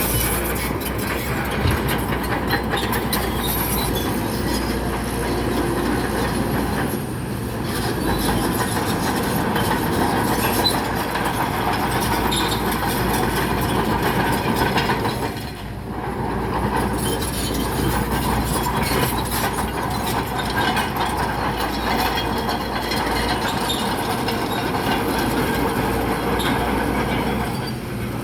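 Crawler bulldozer working, its steel tracks clanking and squealing over the engine's steady running while it pushes rock, with a brief lull about halfway through.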